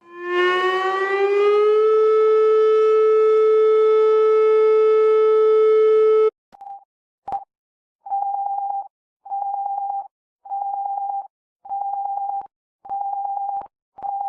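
Emergency alert alarm tones. First an electronic siren tone winds up in pitch over about two seconds, holds steady, and cuts off suddenly about six seconds in. After two short clicks, a single steady beep repeats about once a second, like a telephone busy signal.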